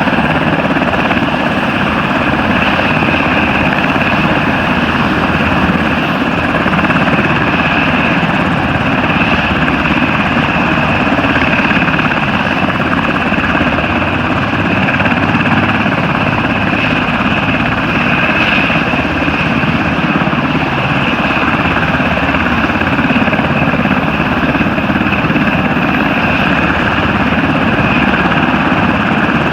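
Sikorsky UH-60 Black Hawk military helicopters running steadily and loudly, a dense engine-and-rotor noise with a steady high whine on top.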